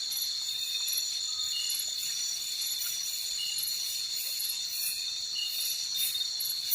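Night insect chorus: crickets and other insects trilling steadily at several high pitches, with short chirps repeating every second or two over it.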